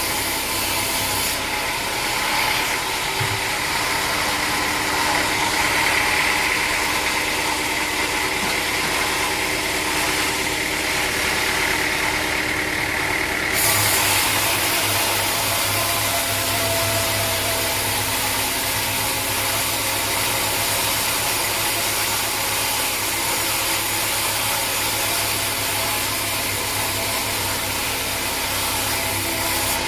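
Sawmill machinery engine running steadily. About 14 s in its sound shifts, with a stronger low hum.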